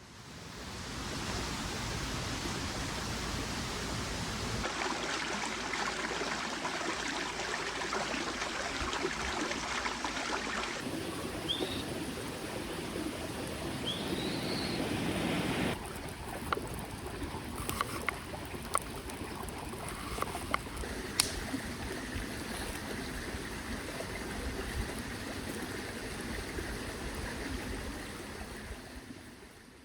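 Small mountain stream running steadily over rocks, its sound shifting abruptly a few times. A bird gives two short rising chirps near the middle, and there are a few small ticks later on.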